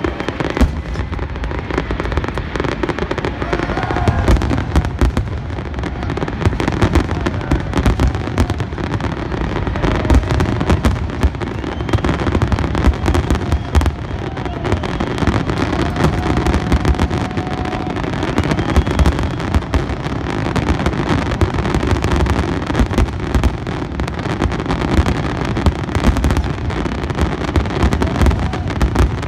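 Fireworks finale: a dense, unbroken barrage of aerial shells bursting, many rapid overlapping bangs and deep booms one after another.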